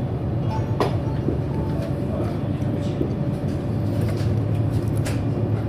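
TGV Duplex high-speed train running and accelerating, heard from inside the passenger cabin as a steady low rumble, with a couple of sharp clicks about a second in and near the end.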